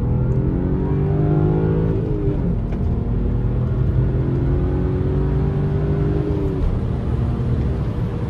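BMW N54 twin-turbo inline-six accelerating, heard from inside the cabin over road noise: its pitch climbs, drops suddenly at a gear change about two seconds in, climbs again and drops once more near the end.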